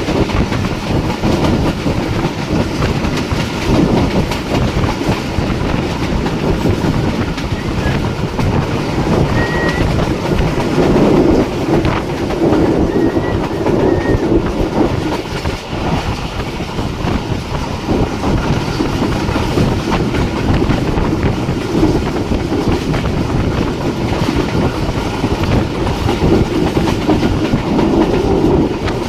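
Jaffar Express passenger train running steadily, its wheels clattering over the rail joints with a continuous rumble.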